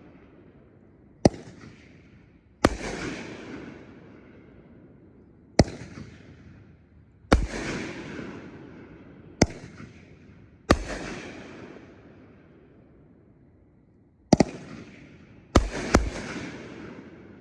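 A 500-gram, 8-shot consumer firework cake (T Sky Fire Tiger) firing aerial shells. Each shell goes up with a sharp thump, and over a second later it breaks with a louder bang that fades slowly. This comes about four times, and near the end two shots go up almost together and break in quick succession.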